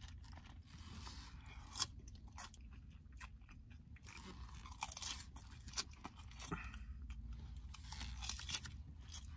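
Faint close-up chewing of a mouthful of crisp salad greens, with soft scattered crunches and a few sharper clicks, over a low steady hum.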